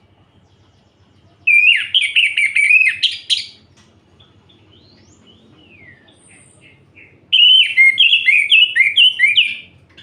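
Orange-headed thrush singing: two loud phrases of rapid, warbling notes, each about two seconds long, starting near the beginning and the middle, with a few faint whistled notes sliding down between them.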